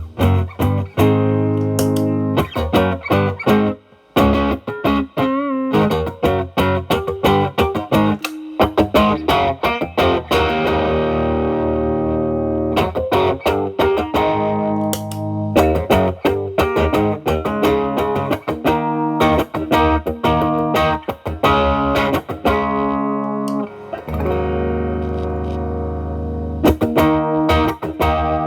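Telecaster electric guitar played through an E.W.S. Brute Drive distortion pedal, its gain at zero, into the drive channel of a Marshall Valvestate amp: a lightly distorted tone. Quick picked runs and bent notes alternate with a few held chords, briefly stopping about four seconds in.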